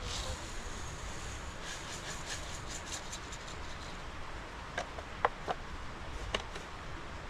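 Steady low rumbling noise with light crackling, then a handful of sharp, separate clicks or knocks in the second half.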